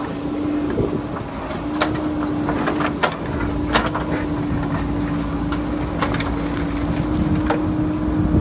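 JCB backhoe loader's diesel engine running steadily under load as it digs into rocky hillside, with several sharp knocks as the bucket strikes stone. Wind buffets the microphone.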